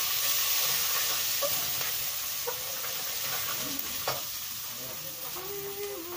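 Onion and garlic sizzling in hot oil in a pot on a gas burner, the hiss loudest at first and slowly easing. A spoon stirs them, knocking against the pot a few times.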